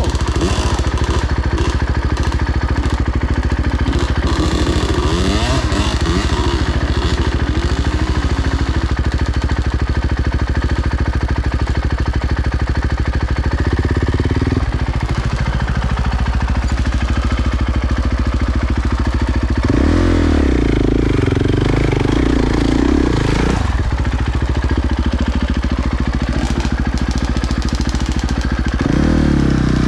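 Dirt bike engine running under way, loud and continuous. Its note changes as the throttle is worked, with surges about halfway through, around twenty seconds in and near the end.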